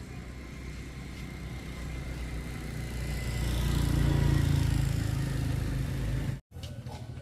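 A motor vehicle engine running with a low hum that grows louder, loudest about four seconds in, then cuts off abruptly shortly before the end.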